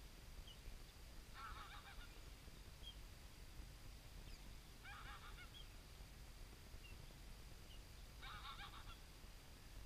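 Faint bird calls: three short bursts of rapid, chattering notes, about three and a half seconds apart, with a few single faint chirps in between.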